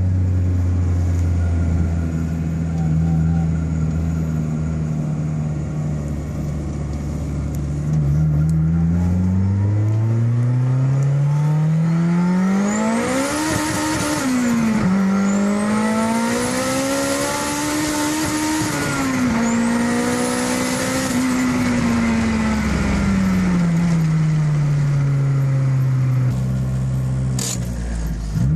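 Honda B-series four-cylinder VTEC engine, heard from inside the car, holding a steady note for several seconds, then revving up hard. Its pitch drops suddenly twice at the gear changes, climbs again, and then falls slowly as the car eases off. There is a sharp click near the end.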